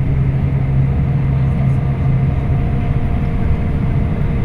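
Scania K340IB coach under way, heard from on board: a steady low drone of engine and road noise while cruising.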